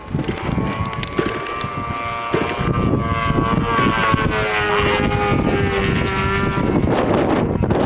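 Radio-controlled model airplane's engine running, its pitch sliding up and down as the throttle and distance change, with strong wind buffeting the microphone. Near the end the engine tone fades and the wind noise takes over.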